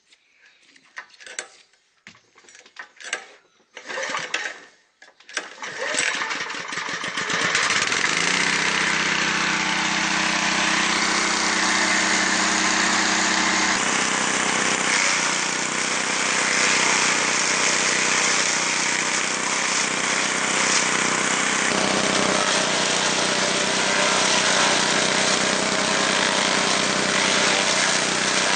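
Small 6 hp petrol engine driving a banana shredder being started: a few short bursts, then it catches about six seconds in and runs steadily. Its note shifts twice as it keeps running.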